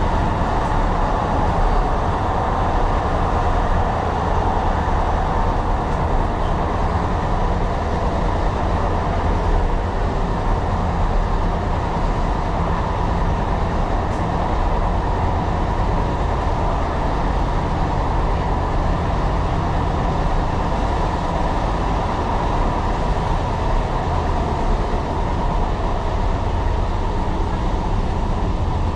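Tyne and Wear Metrocar running along the line, heard from inside the train. A steady low rumble of wheels on rails, with a faint steady whine above it.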